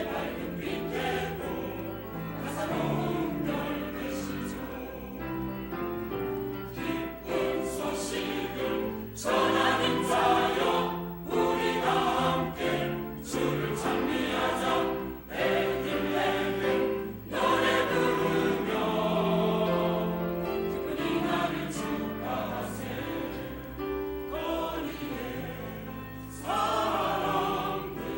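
Church choir singing in Korean, several voices together in harmony with held notes.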